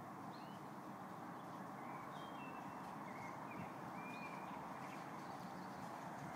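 Small birds chirping faintly now and then, a handful of short high chirps, over a steady background hiss of outdoor ambience.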